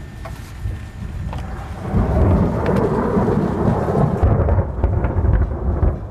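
Thunder rolling during a rainstorm: a low rumble swells up about two seconds in and keeps rumbling, with rain falling throughout.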